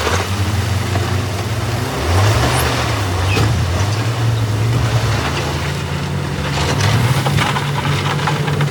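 Diesel engine of heavy earthmoving machinery running under load, its pitch rising and wavering about two seconds in, with a run of sharp knocks and clanks near the end.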